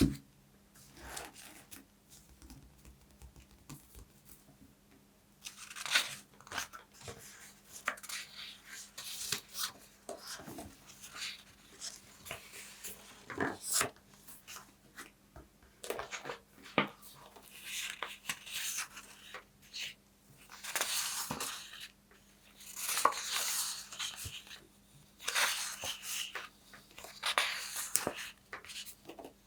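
Paper tearing and crinkling close up in irregular strokes with sharp snaps, sparse for the first five seconds or so and then busier, over a faint steady hum.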